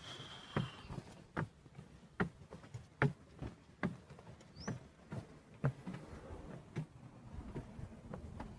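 Footsteps walking at an even pace of a little over one step a second, each step a short sharp tap.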